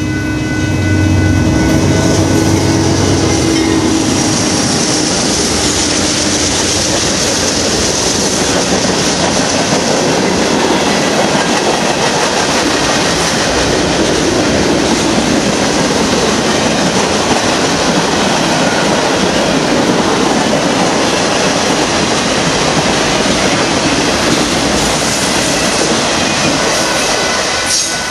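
Union Pacific manifest freight train's cars rolling past: a loud, steady rumble of steel wheels on rail with clickety-clack over the rail joints. A low drone in the first few seconds fades out.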